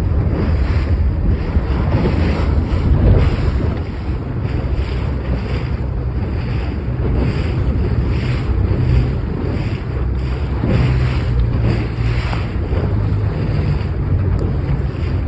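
Strong, gusty wind buffeting the microphone with a heavy low rumble, over a rushing wash of water.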